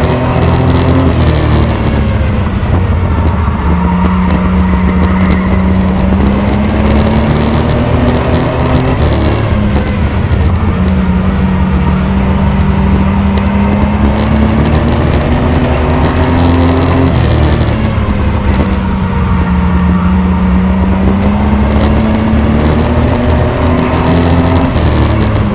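Race truck's engine running hard around a short oval, the pitch climbing and then dropping back in a repeating cycle about every seven to eight seconds as it takes the straights and turns, over a heavy rumble of engine and road noise.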